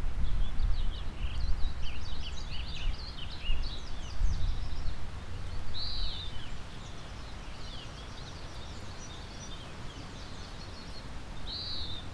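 Several songbirds singing, with quick high chirps crowding the first half and an arched whistled note twice. Underneath is the low, gusting rumble of wind and the steady rush of a river.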